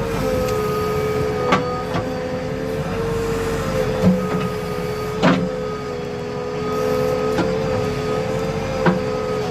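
Heavy diesel machine's engine running at a steady speed with a steady whine, and a few sharp clunks, loudest a little past halfway.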